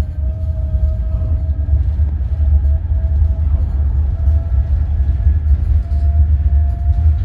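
Roslagsbanan narrow-gauge electric train running with a heavy low rumble and a thin motor whine that slowly rises in pitch.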